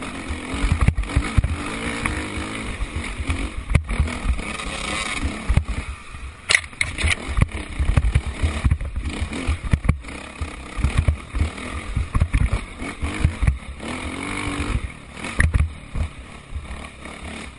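Motocross motorcycle engines running and revving around a dirt track, with the pitch rising and falling as the bikes accelerate and back off.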